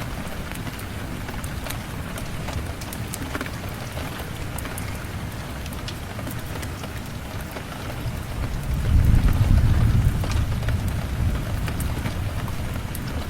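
Steady rain falling, with scattered sharp crackles from a fireplace. A low rumble of thunder swells up about eight seconds in and slowly fades.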